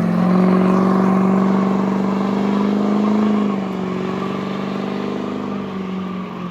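Car engine revved up and held at steady high revs, easing off a little about halfway through and then held again before it cuts off suddenly.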